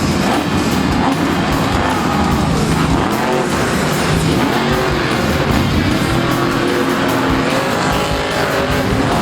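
Monster truck engines running loudly with rising and falling revs, with music playing alongside.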